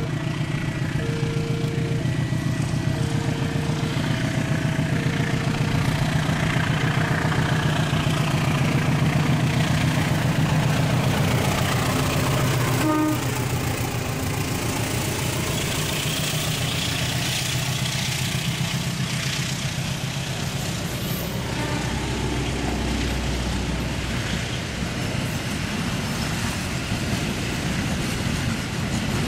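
A diesel locomotive hauling a passenger train passes at low speed, its engine loud in the first half. The coaches then roll by with steady wheel and rail rumble and rattle. A short repeating tone sounds about once a second over the first several seconds and fades out.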